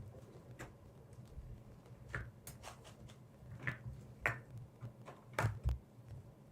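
Irregular light taps and clicks of objects being handled, about eight over several seconds with the loudest ones in the second half, over a faint low hum.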